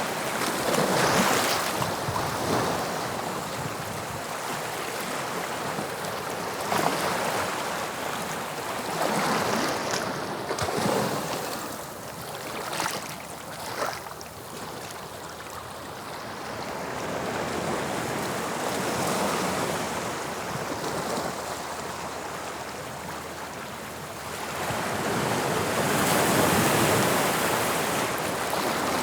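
Sea waves on a shore: surf breaking and washing in and out, swelling several times, with a short crackle of receding water about halfway through.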